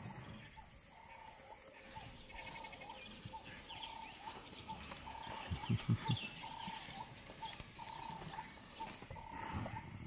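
A wild bird repeating a short piping call about once a second, with fainter chirps from other birds. A few soft low thumps come about halfway through.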